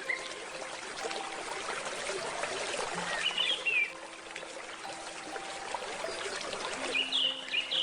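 Forest stream trickling and splashing, with birds chirping in short bursts twice, about three seconds in and near the end. Soft handpan notes ring out under the water.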